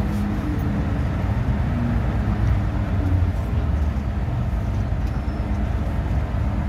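MTR M-Train heard from inside a passenger car while running between stations: a steady rumble of wheels on the track and running gear, with faint short motor tones.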